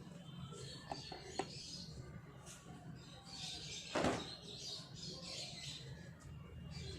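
Wet laundry being handled and hung out to dry: rustling cloth, two small clicks a little after a second in, and one sharp thump about four seconds in, the loudest sound here.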